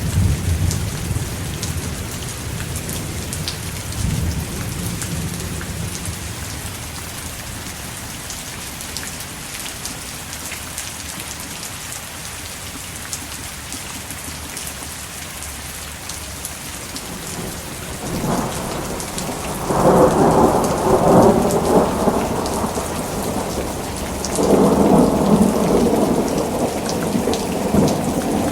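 Steady heavy rain pattering, with rolling thunder: a low rumble dying away over the first few seconds, then two louder, longer thunder rolls, one about two-thirds of the way through and one near the end.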